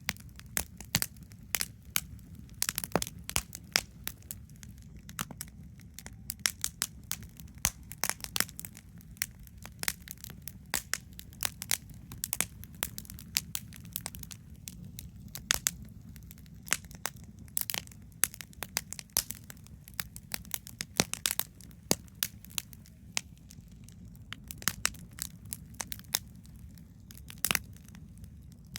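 Wood campfire crackling: irregular sharp pops and snaps, several a second at times, over a steady low rumble.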